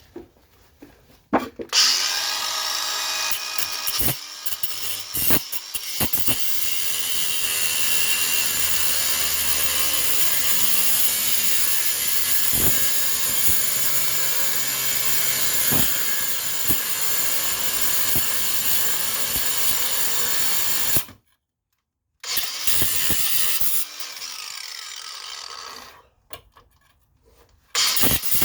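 Cordless power tool cutting through a stuck suspension part in long continuous runs. It stops for about a second about three-quarters of the way through, runs again briefly, and starts up once more near the end.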